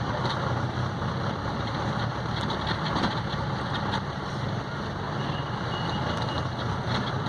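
Vehicle engine running steadily at low speed in slow traffic, with road noise.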